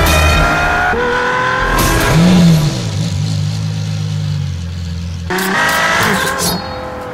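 Ferrari LaFerrari's hybrid V12 engine revving hard as the car accelerates through the gears. The pitch climbs, drops sharply about a second in at a gearshift and climbs again. It then settles to a lower steady note and rises once more about five and a half seconds in.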